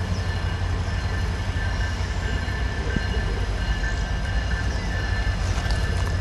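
Approaching Norfolk Southern freight train: a steady low rumble with thin, high, steady wheel-flange squeal from the train rounding a curve.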